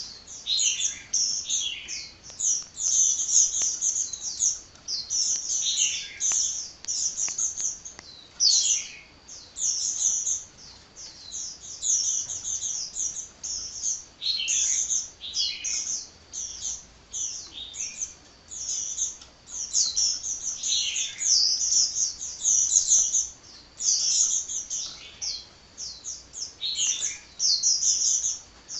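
A sunbird singing almost without pause: rapid runs of high, thin chirps and trills, with only brief breaks between phrases.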